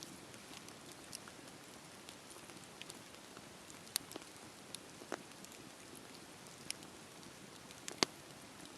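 Wood fire crackling: a soft steady hiss with scattered sharp pops, the loudest about eight seconds in.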